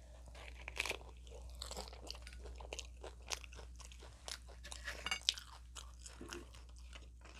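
Close-miked crunching and chewing of a hard taco shell with chicken filling: many short, irregular crisp crunches.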